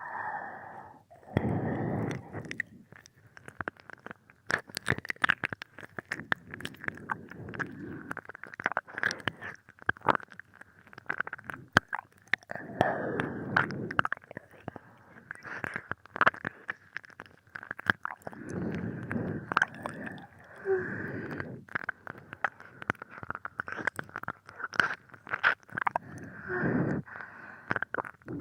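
Binaural ASMR ear-licking: wet tongue and lip sounds on the microphone's ear, with many sharp clicks and smacks and swells of lower, breathy licking every few seconds. Steady rain hiss runs underneath.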